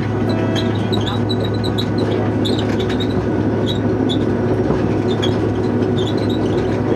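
Train running, heard from on board: a steady engine drone with frequent short squeaks and clicks from the wheels and carriage.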